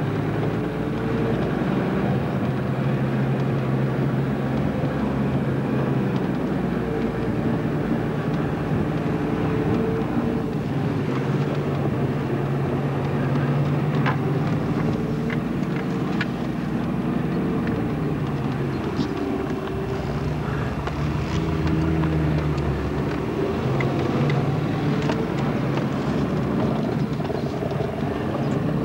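Off-road 4x4's engine heard from inside the cabin as it drives over rough ground, its pitch stepping up and down with the throttle and gears, with scattered clicks and knocks.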